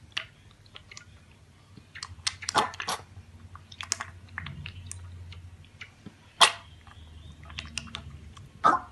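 A pet chewing and crunching food, with irregular crunches and clicks and a few louder ones about two and a half seconds in, around six and a half seconds in, and near the end.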